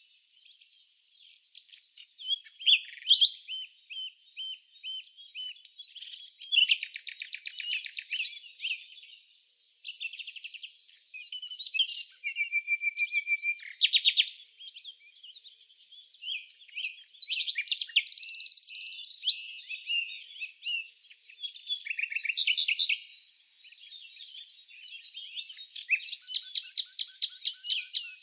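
Songbirds chirping and singing, one phrase after another: rapid trills of quick repeated notes, short whistled notes and chirps, all high-pitched.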